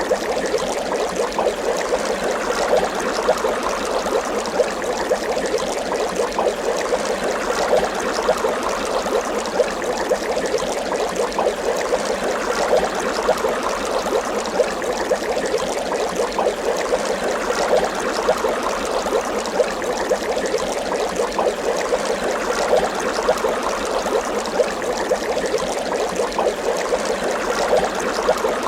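Water bubbling continuously, a dense stream of small bubble pops and gurgles at a steady level.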